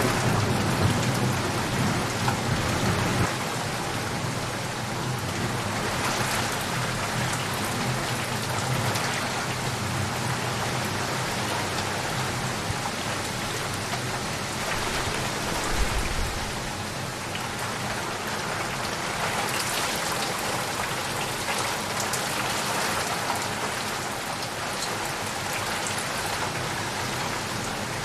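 Steady heavy rain falling, with a low rumble of thunder dying away in the first few seconds.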